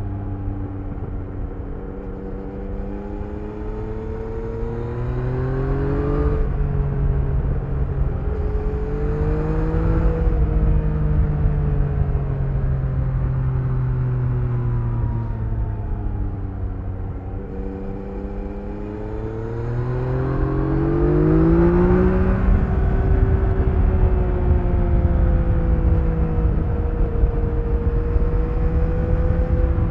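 Yamaha XSR900's three-cylinder engine on its stock exhaust, heard while riding. The pitch climbs over the first few seconds, drops suddenly just after six seconds, sinks slowly for several seconds, then climbs again before twenty-two seconds and holds steady. Wind rumble runs underneath.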